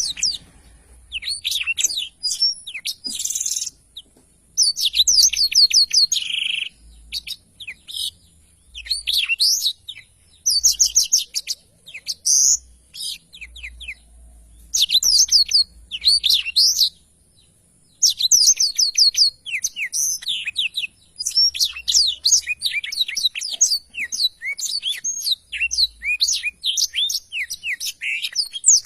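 Black-throated canary (blackthroat) singing hard: rapid, varied phrases of high twittering trills and sweeping notes, each lasting a second or a few, with short breaks between.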